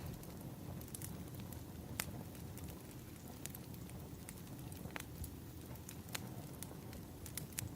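Burning firewood crackling: a steady low rumble of flames with irregular sharp pops and snaps.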